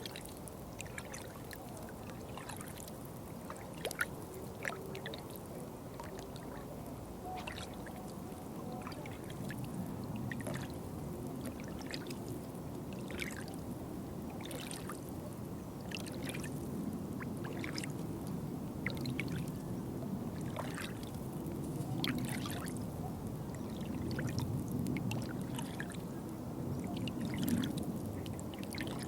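Water trickling and gurgling steadily, with frequent small sharp drips and splashes scattered irregularly through it.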